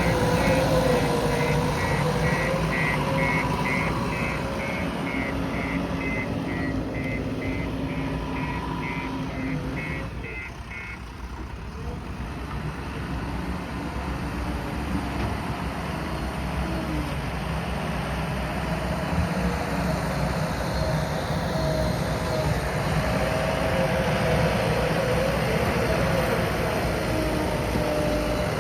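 JCB backhoe loader's diesel engine running under working load, its reversing alarm beeping steadily for roughly the first ten seconds. The beeping then stops, and the engine drops briefly before working harder again.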